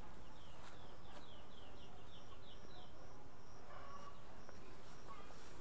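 Bird song outdoors: a quick run of about ten short, descending chirps, around four a second, over the first three seconds, with a steady string of high pips repeating through the rest.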